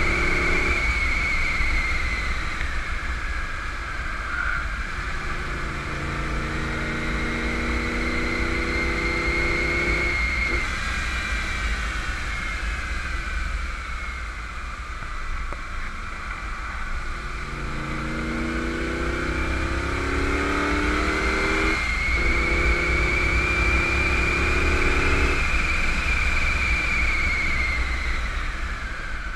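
1991 Camaro Z28's 305 TPI V8 under hard acceleration on track, its note climbing in pitch twice and easing off between the pulls. Steady low road and wind rumble lies beneath it, with a high whine that rises and falls with speed.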